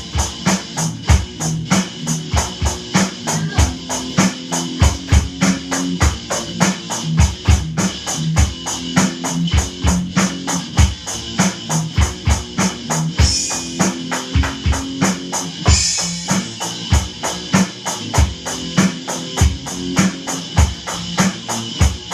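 Drum kit played at a fast, steady beat with kick drum, and cymbal crashes about two-thirds of the way through, over an electric guitar that is hard to hear under the drums.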